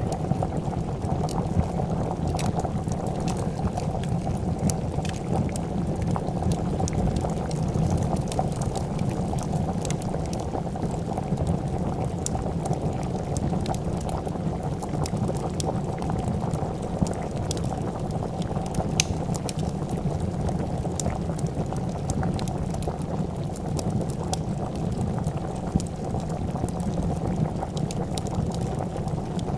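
A pot of soup boiling steadily, a continuous low bubbling, with scattered small sharp crackles of a wood fire over it.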